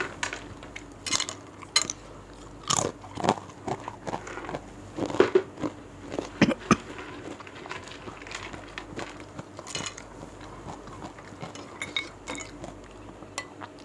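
A person chewing a mouthful of food close to a lapel microphone: irregular wet mouth clicks and smacks, busiest in the first half and thinning out later.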